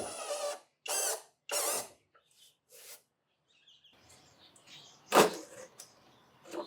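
Cordless drill driving screws in three short runs, one after another, its pitch wavering as it runs. A single sharp knock comes about five seconds in.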